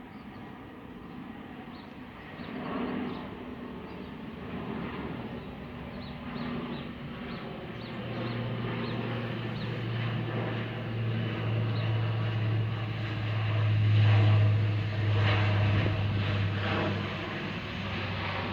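Lockheed HC-130J Combat King II's four Rolls-Royce AE 2100D3 turboprops with six-bladed propellers, on its landing approach. The engines grow louder into a deep, steady propeller drone that is loudest about three quarters of the way through.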